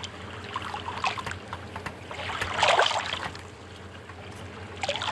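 A fork clicking and scraping in a nonstick pan as beans are mashed, with a louder scrape about two and a half seconds in, over a steady low hum.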